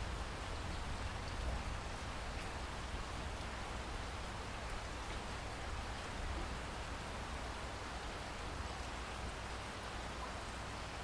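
Steady rain falling: an even hiss with faint scattered drop ticks and a low rumble underneath.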